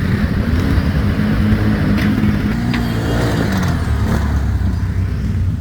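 ATV engine running under throttle, its pitch rising and falling as it revs, with two short sharp knocks about two and three seconds in.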